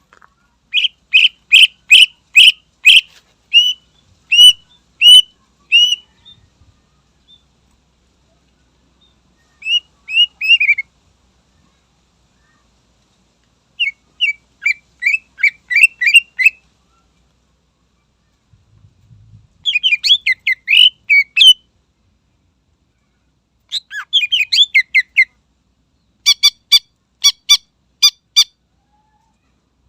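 Cucak ijo (greater green leafbird) singing loudly in bursts. It opens with a run of about a dozen sharp whistled notes, then gives several shorter, rapid chattering phrases separated by pauses of a few seconds.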